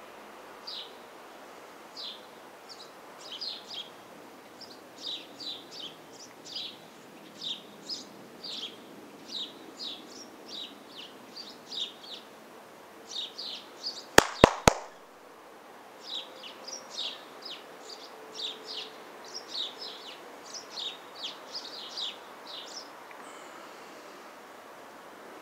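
A small bird chirping repeatedly: short, high, downward-slurred chirps, a few a second, over faint outdoor background noise. Three sharp clicks come in quick succession about halfway through, the loudest sounds in the stretch, and the chirping pauses for a second or so after them.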